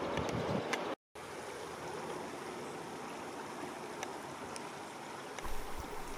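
Steady outdoor background rush with a few faint clicks. It cuts out completely for a moment about a second in, and a low rumble joins it near the end.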